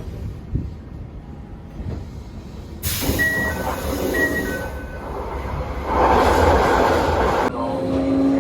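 Running noise of a Toei 5300-series train with a Mitsubishi GTO-VVVF inverter: a low rumble, then a sudden loud rush of noise from about three seconds in that lasts several seconds. Near the end the inverter's motor tone comes in and slowly rises in pitch as the train gathers speed.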